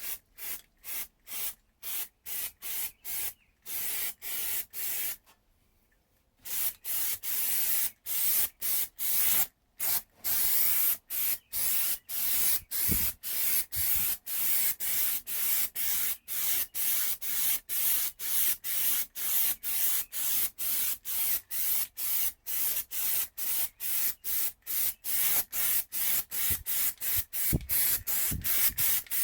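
Spray coating being applied in many short, rapid hissing bursts: about two a second at first, then a pause of a second or so, then quicker bursts through the rest.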